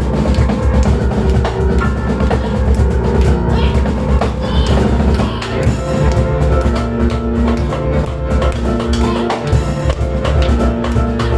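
Live instrumental piano, drum kit and cajon playing a busy, driving piece, with dense drum hits over sustained piano chords.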